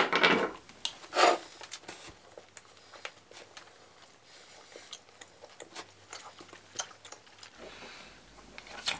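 Two people chewing mouthfuls of Center Shock sour chewing gum, four pieces each, with faint scattered mouth clicks and small crunches. There are a couple of louder mouth or breath sounds in the first second and a half.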